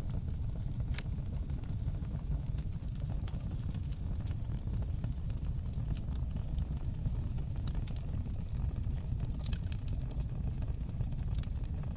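Fire burning in a stone fireplace: a steady low rumble of the flames with irregular sharp crackles and pops, a loud pop about a second in and a cluster of them near the end.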